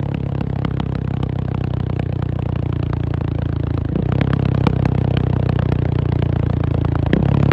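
KTM 690 SMC R's single-cylinder engine running at steady, fairly low revs, with two abrupt changes in engine note about four and seven seconds in, and light clicking on top.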